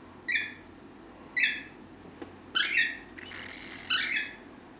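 A pet bird giving four short, high calls about a second apart, each sliding down in pitch.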